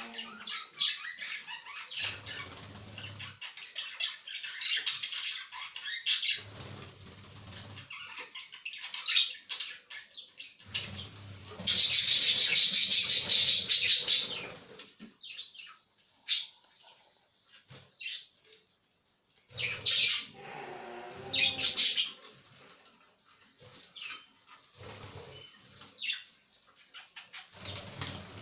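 Pet budgies chirping and chattering, with wings flapping. Partway through, a loud rushing noise lasts about two and a half seconds.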